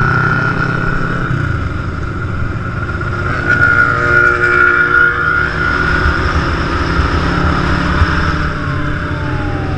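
Large motorcycle engines running with a steady low rumble, swelling for a moment about halfway through. A tone falls in pitch near the end.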